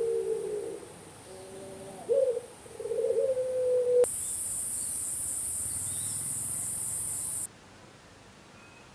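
A dove cooing: low, steady hooting notes repeated a few times. About four seconds in, an abrupt cut brings a steady high-pitched hiss for about three seconds, which then stops suddenly.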